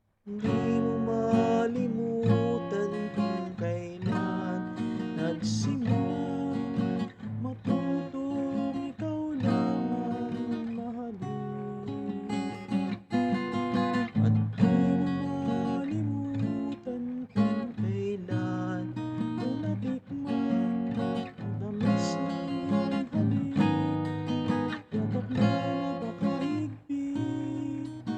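Acoustic guitar strummed and picked in an instrumental passage between sung verses.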